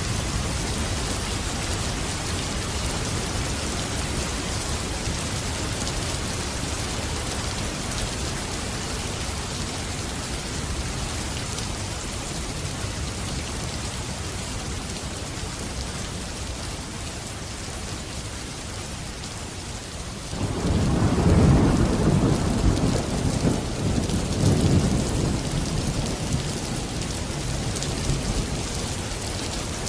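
Steady rain falling, with a low rumble of thunder that breaks in about two-thirds of the way through, swells for a few seconds and fades back into the rain.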